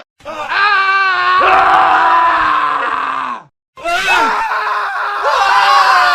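Men screaming in a montage of separate clips: one long scream, wavering in pitch and dropping as it ends, cuts off at about three and a half seconds, and after a brief silence another scream starts.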